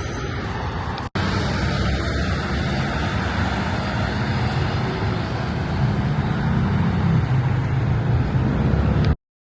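Steady city road traffic noise with a low rumble that swells a little past the middle, as from a vehicle passing; it drops out for an instant about a second in and cuts off suddenly near the end.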